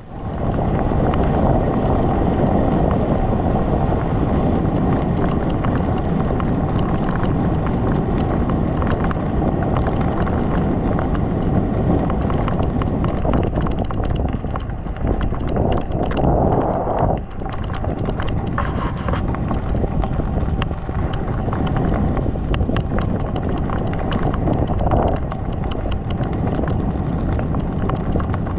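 Canyon Grail:ON e-gravel bike riding over a rough gravel track: a steady rumble of tyres on stones with a constant clatter of small knocks and rattles. Wind buffets the microphone.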